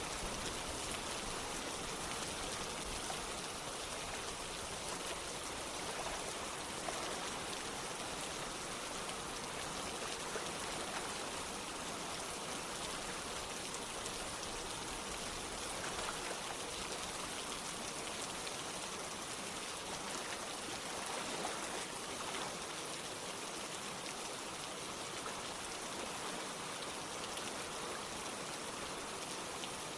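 Steady rain pattering together with running water, a constant even hiss without breaks.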